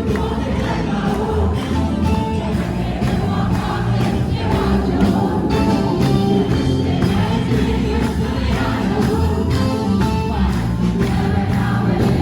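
Choir and congregation singing an Ethiopian gospel song (mazmur) with instrumental accompaniment and a steady beat, crowd voices mixed in.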